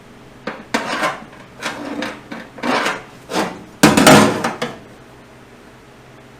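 A run of knocks and scrapes, like wood and tools being handled and worked, in about six short bursts, the loudest about four seconds in.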